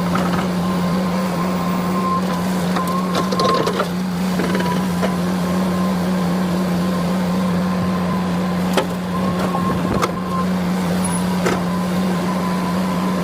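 A machine running steadily, with a constant low hum under a rushing noise and a few light clicks near the end.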